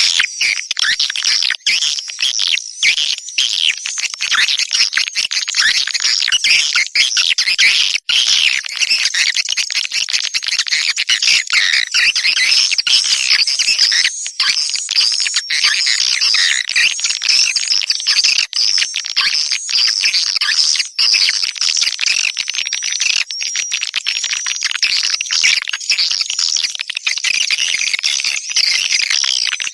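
Swiftlets twittering: a dense, continuous chorus of many overlapping high, quick chirps, the kind of swiftlet calling sound played to lure swiftlets to a nesting house.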